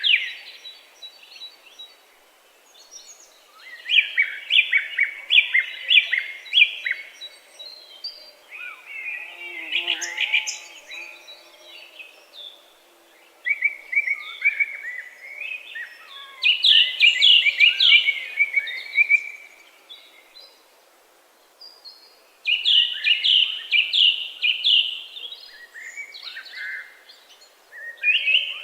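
A songbird singing: phrases of quick, rapidly repeated notes, each lasting two to three seconds, with pauses of a few seconds between them.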